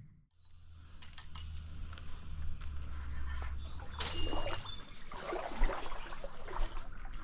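Water splashing and sloshing, with scattered light clicks and rustles and an uneven, irregular loudness.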